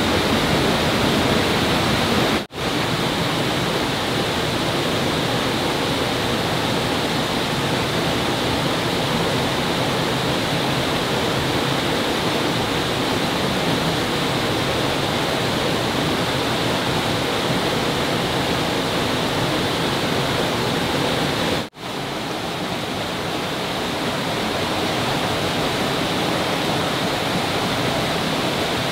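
Water rushing and splashing steadily, as from a stream or small waterfall, with two sudden brief dropouts.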